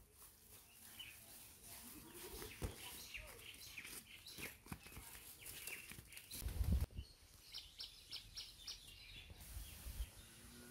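Faint birds chirping, with a quick run of high chirps about two-thirds of the way in. Scattered small clicks and rustles run through it, and a low thump comes just past the middle.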